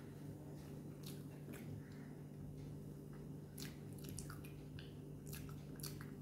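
Faint wet chewing and mouth clicks of someone eating a cooked duck egg yolk, a few short sharp smacks scattered through, over a steady low hum.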